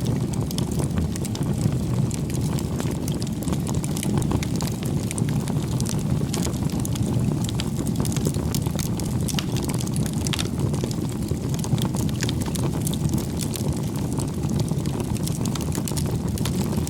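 Wood bonfire burning: a steady low rumble of flames with frequent small crackles and pops from the burning wood.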